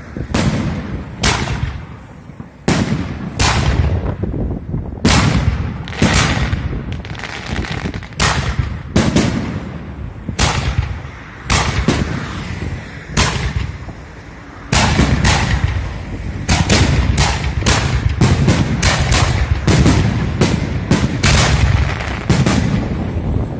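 A 47-shot multi-calibre fireworks cake (63, 75 and 100 mm shells) firing a long ragged series of loud shots, with a low rumble between them. After a brief lull about two-thirds of the way through, the shots come faster and closer together.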